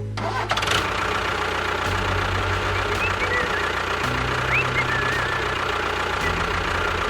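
Steady, engine-like running noise of a small vehicle, with low tones that shift in pitch every couple of seconds.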